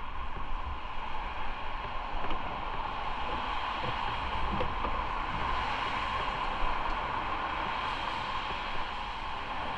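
Steady rush of wind over the microphone of a moving motorcycle, with a low rumble underneath.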